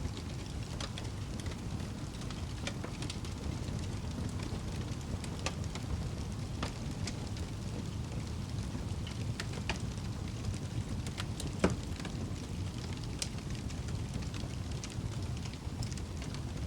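Wood fire burning in a fireplace: a steady low rumble of flames with frequent small crackles and pops, and one louder pop near the end.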